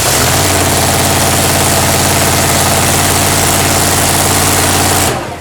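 An engine on a test run, running loud and steady at a constant speed, then stopping abruptly about five seconds in.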